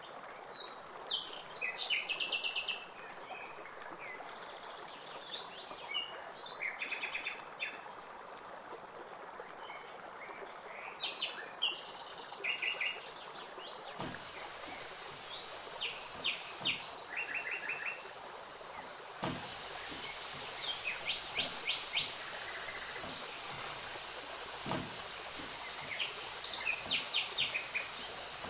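Small birds chirping: short, rapid trills repeated every second or two, over a steady hiss that gets louder twice partway through.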